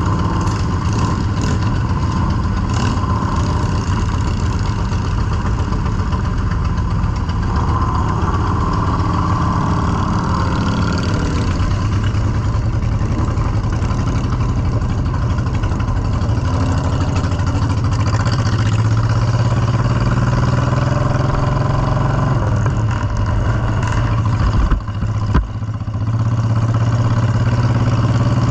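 Motorcycle engine running steadily. Its note rises a little about 18 seconds in, and the sound briefly drops and recovers about 25 seconds in.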